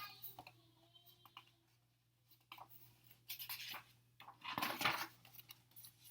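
Faint rustling and rubbing of paper, a few short scratchy bursts, as of a picture book's page being handled and turned.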